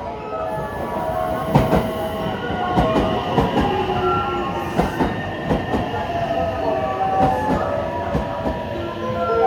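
A train running on the rails, its wheels clacking over rail joints against a steady rolling rumble.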